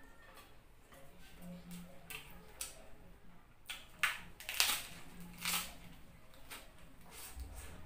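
Close-up eating sounds: crisp bites and crunching of fresh green lettuce leaves with wet chewing, the loudest crunches about four to five and a half seconds in.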